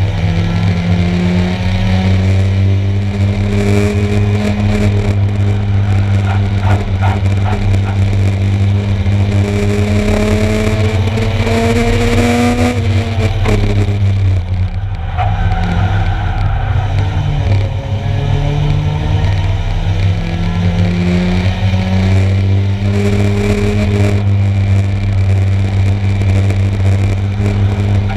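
1-litre stock car engines racing: the engine pitch climbs steadily as a car accelerates, drops sharply about halfway through as it lifts off, then climbs again. A constant low rumble runs underneath.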